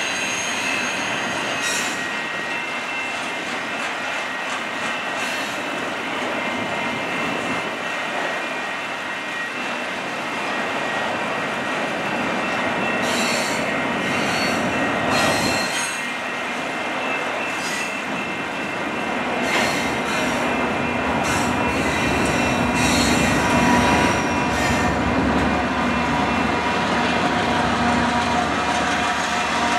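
CP double-stack intermodal train rolling past, its steel wheels squealing in a continuous rumble with scattered clanks in the middle. In the last few seconds a Canadian Pacific diesel locomotive in the train draws near and its engine adds a heavier low drone.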